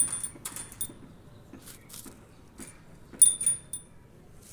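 Small metal jingle rattle shaken in short bursts, jingling with a high ringing tone. It jingles near the start and again about three seconds in, with faint clicks in between.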